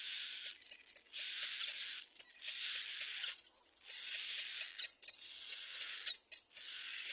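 Little black cormorant chick crying at the nest: a run of about six hoarse, hissing calls, each under a second long with short pauses between, laced with sharp high clicks.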